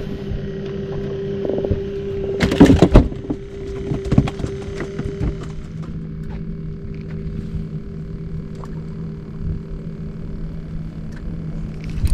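An engine running with a steady hum. About two and a half seconds in there is a loud burst of clatter, with smaller knocks after it.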